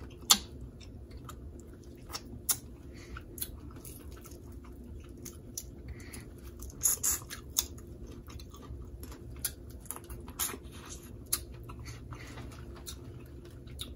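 A person chewing and smacking while eating a spicy seafood boil, with irregular sharp mouth clicks and cracks, the loudest just after the start and a cluster about halfway through, over a low steady hum.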